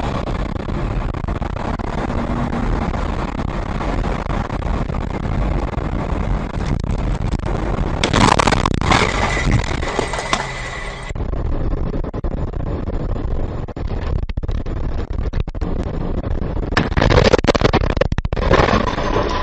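Steady road and engine noise of a car heard from a dashboard camera inside the cabin. Louder bursts of noise come about eight seconds in and again near the end.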